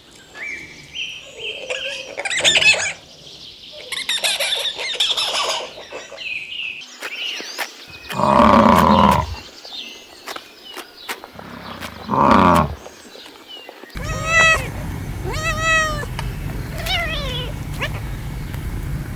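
A series of different animal calls: some high-pitched cries first, two loud calls about eight and twelve seconds in, then a run of short, repeated pitched calls that bend up and down near the end.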